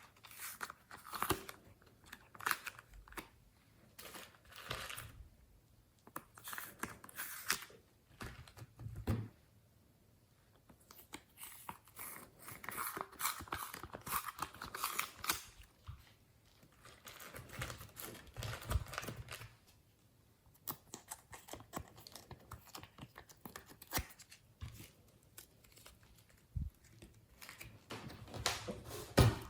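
Glossy slime being worked by hand: irregular sticky crackles, clicks and pops in bursts of a second or two, with short quiet pauses between them.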